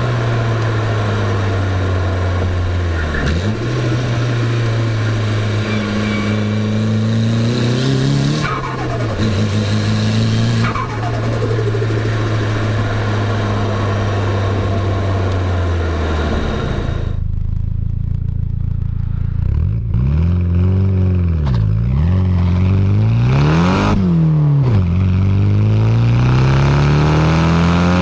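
Nissan Silvia S14a's turbocharged SR20DET four-cylinder pulling through the gears: the engine pitch climbs and drops sharply at each shift, three times in the first eleven seconds. About two-thirds of the way in, the hiss falls away and the revs swing down and up several times, then climb again near the end.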